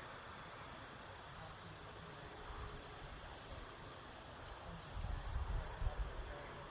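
Insects singing a steady high-pitched drone in summer grassland. A brief low rumble comes about five seconds in.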